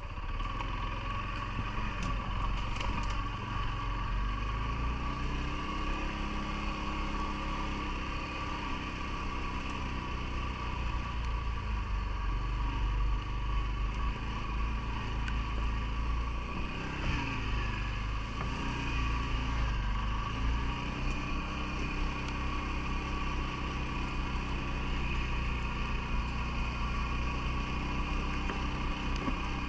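CFMoto ATV engine running under way, its pitch rising and falling several times as the throttle changes, over a low rumble with a steady whine.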